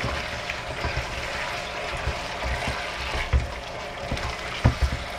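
Soy-sauce chicken cooking in a pan, a steady sizzle, while it is stirred, with a few dull knocks of the utensil against the pan, the loudest near the end.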